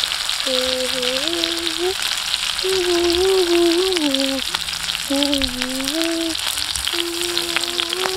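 Chicken quarters sizzling and crackling on a hot clay tile over wood embers as chili sauce is brushed onto them. Over the sizzle runs a held tone that steps between a few pitches about once a second, like a simple tune.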